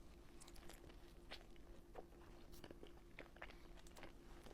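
Faint close-miked chewing and biting, with scattered soft crunches and mouth clicks.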